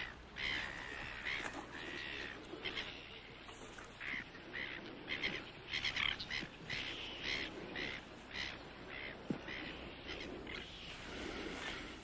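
Birds calling: many short calls repeating every half second or so, some overlapping, over a faint background hiss.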